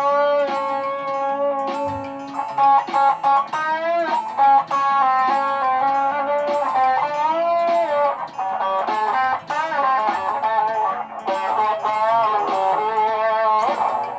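Layered guitar loops: held electric guitar notes bent up and down in pitch over a repeating plucked guitar pattern.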